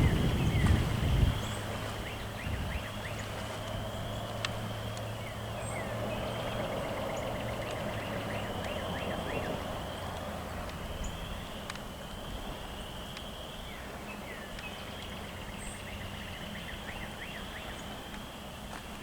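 A songbird singing the same high, trilled phrase over and over, every two to four seconds. Wind rumbles on the microphone for about the first second.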